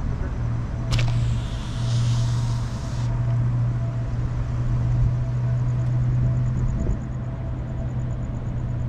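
Car engine idling steadily with a low hum. About a second in there is a sharp click, followed by a hiss that cuts off after about two seconds.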